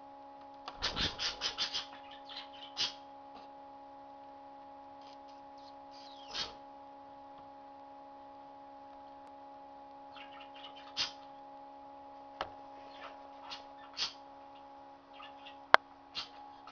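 Budgerigars chirping in short scattered bursts, a quick run of chirps about a second in and single calls later, one of them a falling sweep, over a steady electrical hum. A sharp click near the end.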